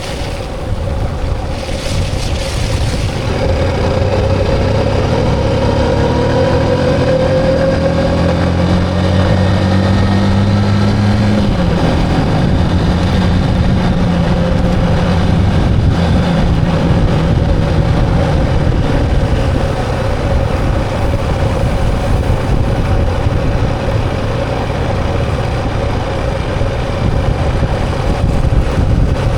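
Motorcycle engine running while riding, over steady wind and road noise. The engine note rises in the middle and drops to a lower pitch about eleven seconds in.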